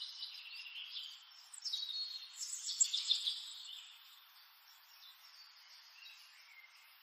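Birds chirping and singing in quick, high notes, busiest in the first four seconds and then thinning to a few faint chirps.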